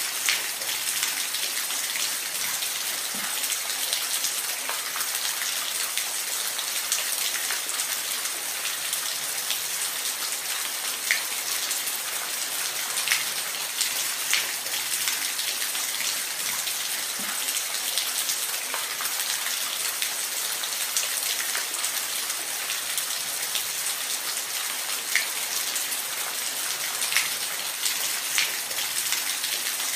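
Waterfall: a steady hiss of falling water, strongest in the highs, with scattered small splashes and drips ticking through it.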